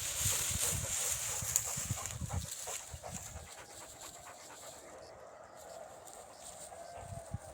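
A dog panting in quick breaths, louder for the first couple of seconds and then fading to faint.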